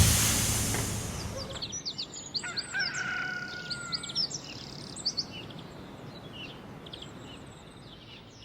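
Birds chirping in a morning soundscape, with one longer held call a few seconds in. At the start a crash from the end of the music rings out and fades over the first second or so.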